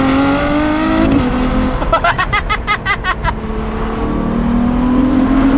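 Ferrari F12 Berlinetta's 6.3-litre naturally aspirated V12 accelerating hard, its pitch climbing for about a second. About two seconds in there is a short run of rapid, regular pulses, and the engine then climbs again toward the end.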